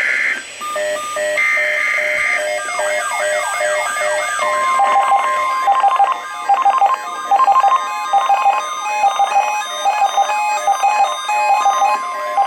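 NOAA Weather Radio alert sequence: two roughly one-second bursts of warbling SAME data tones, then the steady single-pitch warning alarm tone starting about four seconds in and held to the end. Throughout there is a jumble of stepping, zigzagging electronic beeps.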